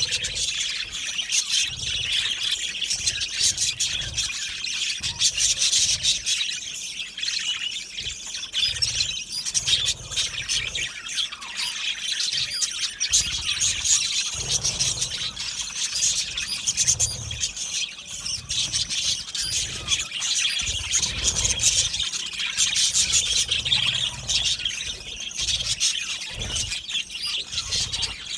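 A colony of budgerigars chattering, chirping and squawking continuously, many birds at once.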